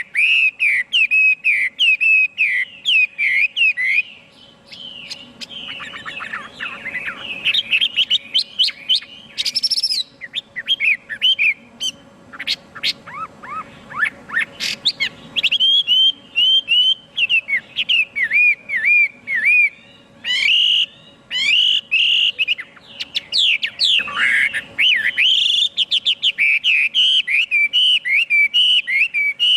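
Chinese hwamei singing: fast runs of loud, clear whistled notes, repeated and varied. About four seconds in the song drops to a softer stretch of quieter, varied notes, and the loud phrases resume about halfway through.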